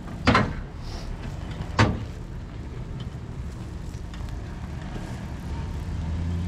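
Vehicle engine idling low and steady, with two sharp knocks in the first two seconds. The engine grows a little louder near the end.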